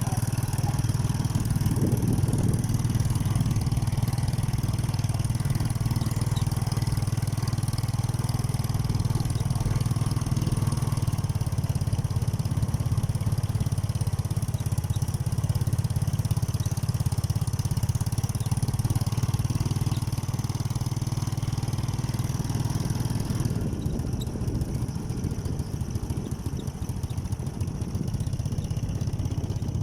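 Motorcycle engine running steadily at a constant level. About three-quarters of the way through, the sound thins out and turns less even.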